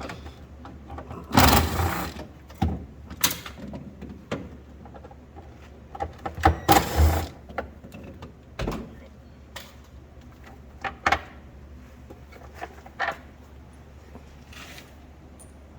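Hand tools working on the metal bolts of a clutch cover: scattered clinks and knocks, with two longer rasping bursts about one and a half and six and a half seconds in.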